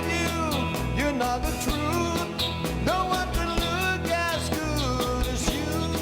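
Live rock and roll band playing, a gliding lead melody over a steady drum beat and bass.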